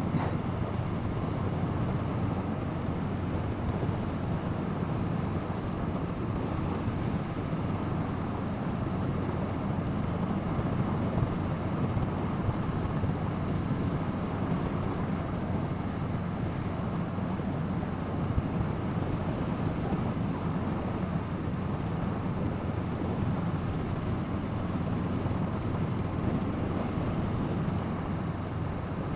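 Steady wind rush over the camera microphone on a moving Honda CB500F motorcycle, with the bike's 471 cc parallel-twin engine running evenly underneath at a steady cruise.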